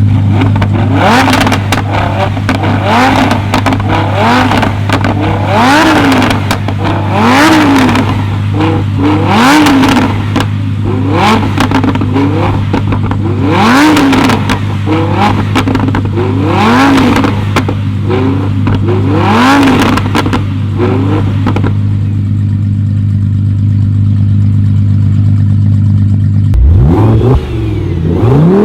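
A tuned car's engine idles and is revved repeatedly in short blips, about a dozen, each rising and falling back. It then idles steadily for a few seconds. Near the end the sound changes abruptly into another rising rev.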